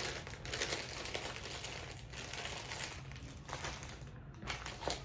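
Plastic food packaging crinkling as it is handled, continuous for about three seconds, then in a few short bursts near the end.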